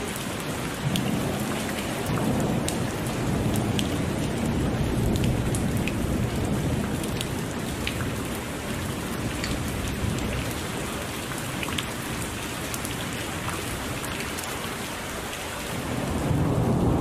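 Heavy rain pouring steadily, with low rolling thunder rumbling under it. The thunder swells about a second in and again near the end.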